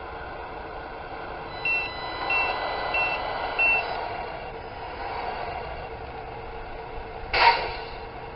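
Tamiya Scania Highline 1/14 RC truck's sound unit playing a reversing beeper, four short beeps about two-thirds of a second apart, over a steady simulated engine sound. About seven seconds in comes a short, loud hiss like an air-brake release.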